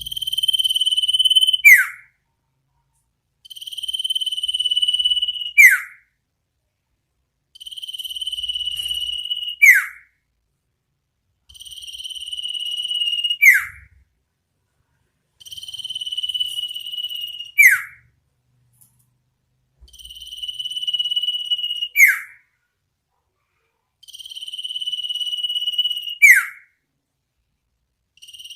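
Iora (sirtu/cipoh) calling over and over: a long note held at one pitch for about two seconds, ending in a quick falling 'pow', repeated about every four seconds, seven times.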